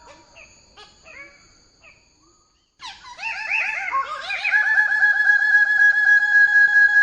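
Bird-of-paradise calling: faint scattered chirps, then the sound cuts out briefly. About three seconds in comes a loud, fast run of repeated notes that settles to a steady pitch.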